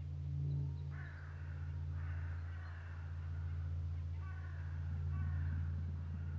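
A bird calling several times in short runs over a steady low hum.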